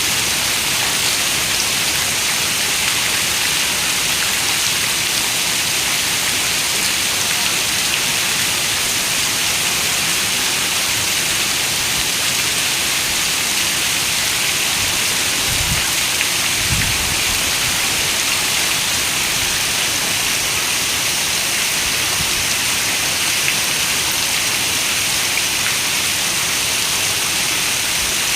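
Heavy rain falling steadily on a window, a dense, even hiss. Two brief low thuds come a little past the middle.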